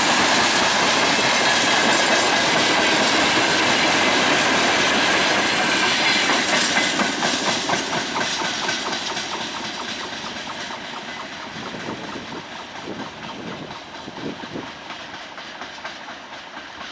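Freight train rolling past, its wagons clattering over the rail joints. The sound is loud for the first several seconds, then fades steadily as the train draws away.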